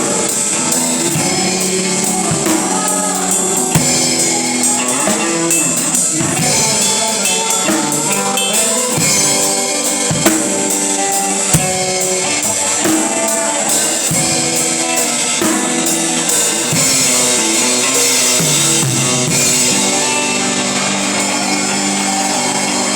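Live worship band music: a drum kit keeping a steady beat under sustained guitar and keyboard-like notes.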